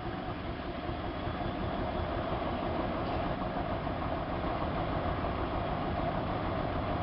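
Siemens iQ WIQ1430 front-loading washing machine running, a steady rumbling whir that grows slightly louder.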